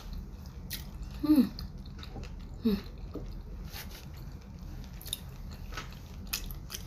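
Close-miked chewing of sushi filled with fish roe and mayonnaise, with wet mouth clicks and smacks throughout. Two short hummed sounds stand out, about a second and a half in and again near three seconds.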